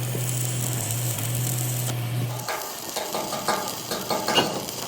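Electric arc welding on heavy steel plate: a steady crackling arc over the welding machine's hum, which stops about halfway through. Irregular metallic clicks and knocks follow.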